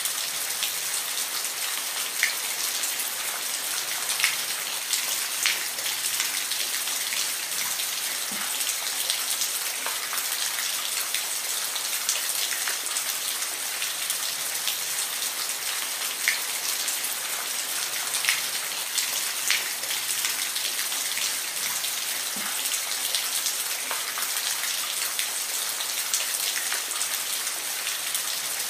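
Steady rain falling, an even hiss with scattered louder individual drops ticking close by.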